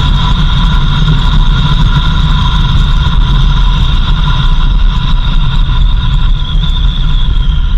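Vehicle driving along a dirt road: a steady low engine and road rumble, with a steady high-pitched whine over it.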